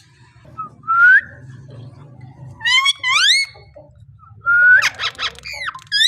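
Indian ringneck parakeet whistling: a rising whistle about a second in, two quick upswept whistles around the middle, and near the end a held note and a few choppy notes followed by another upsweep.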